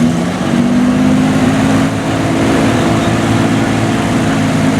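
A car engine running at a steady speed, its pitch holding nearly even.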